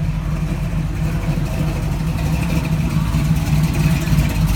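Car engine running steadily with a low, even rumble.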